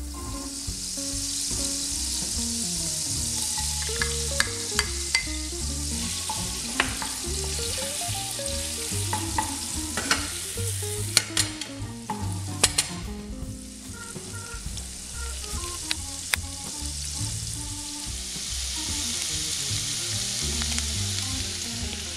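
Chopped shallots sizzling in melted butter in a stainless steel frying pan over high heat, stirred with a wooden spatula, with sharp clicks now and then as the spatula knocks the pan. The sizzle eases a little past the middle and comes back strongly near the end.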